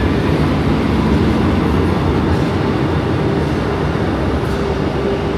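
Renfe Class 450 double-decker commuter train rolling past along the platform: a steady low rumble of wheels and running gear with a steady hum over it.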